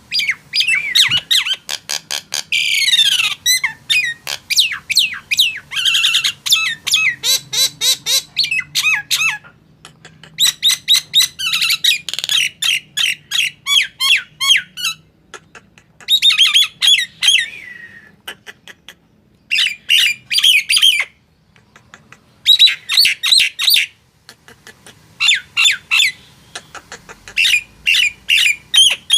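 Male jalak nias, a starling, calling energetically: loud rapid strings of sharp, squawking notes and whistles, coming in bouts with short pauses between them.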